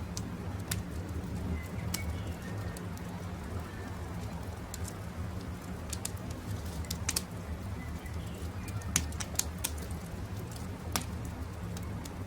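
Campfire crackling with scattered sharp pops, the loudest about nine and eleven seconds in, over a steady low rumble, while birds call with short chirps.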